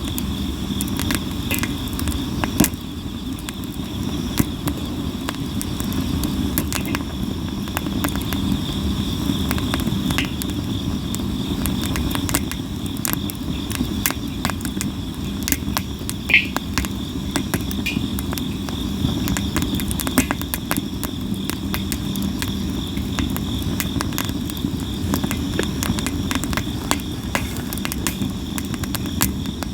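Campfire of sawara cypress wood burning, with constant crackling and sharp pops at irregular moments. A steady high trill of insects runs underneath.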